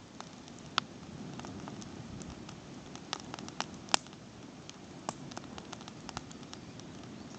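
Campfire crackling: irregular sharp pops and snaps over a low, steady hiss, one pop about four seconds in louder than the rest.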